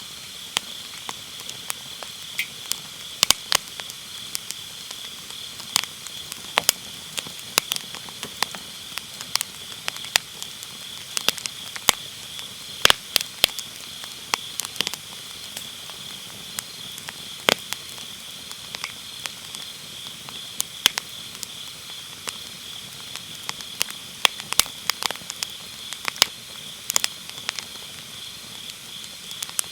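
Firewood burning in a fire pit, crackling and popping in irregular sharp snaps, several a second at times. Under it runs the steady high-pitched trill of autumn night grass insects.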